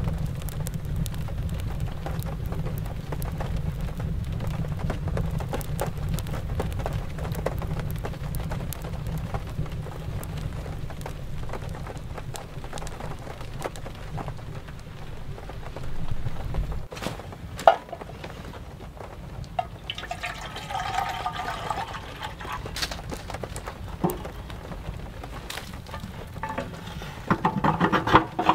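Rain falling, with a wood fire crackling in a cast iron stove. A steady low rumble stops about two-thirds of the way through, leaving scattered crackles and drips. Near the end come metal clanks as the stove is handled.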